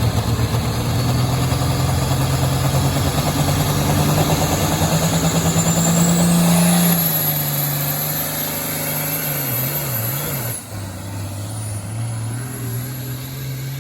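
International Harvester 1466 tractor's turbocharged six-cylinder diesel running hard under load, its pitch climbing slowly with a high whine rising over it. About seven seconds in the pitch drops, and a little after ten seconds the sound falls off suddenly to a lower, steadier run.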